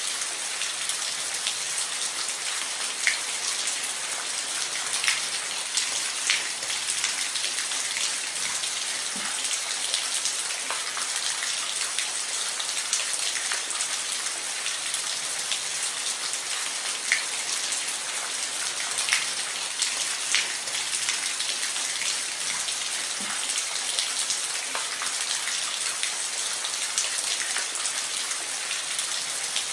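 Steady rain falling on a roof: an even hiss with many separate drops ticking sharply on top of it.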